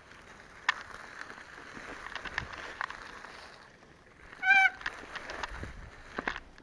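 A single short, wavering honk about four and a half seconds in, over a faint steady hiss with scattered sharp clicks.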